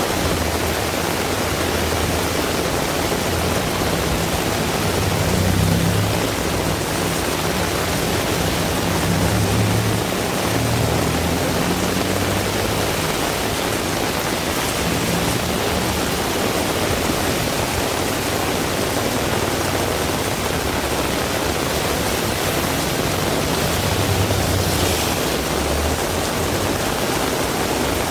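Heavy rain falling steadily as a dense, even hiss. Low rumbles swell in about three times, around six seconds, ten seconds and near the end.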